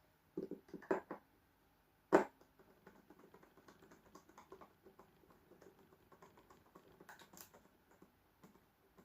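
Hand work fitting a cable into a charge controller's screw terminal. A few knocks come first, then one sharp click about two seconds in, followed by a long run of small, irregular clicks and ticks from the wire and tool being worked into the terminal.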